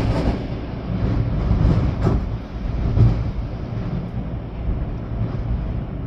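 Storm wind gusting hard, rumbling on the microphone over a steady hiss of wind and rain; the gusts swell and ease off near the end.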